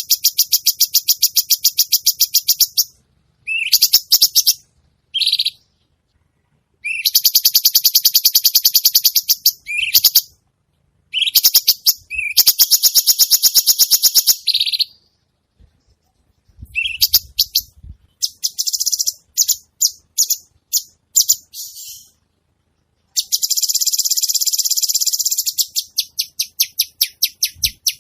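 Songbird calls: harsh, high-pitched rattling trills of rapid repeated notes, each lasting one to three seconds, with short silences between them and runs of separate sharp notes in between.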